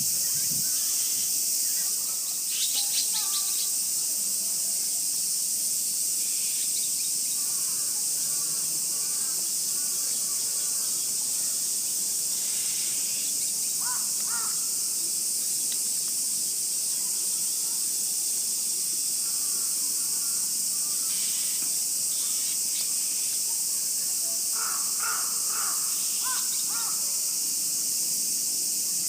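A steady, high-pitched drone of summer cicadas, with crows cawing a few times: near the start, about halfway through, and in a cluster of calls near the end.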